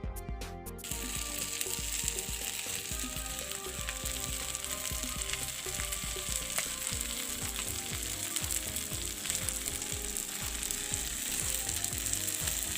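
Chicken sizzling as it fries on a hot tawa, a steady hiss that starts about a second in, with background music underneath.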